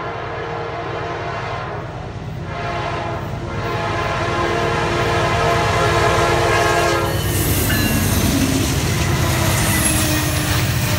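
Air horn of a Norfolk Southern freight's lead diesel locomotive sounding for a grade crossing, in several blasts with short breaks, the last held until it cuts off about seven seconds in. Then the three-unit diesel lashup passes close by, loud engines over the rumble of wheels on rail.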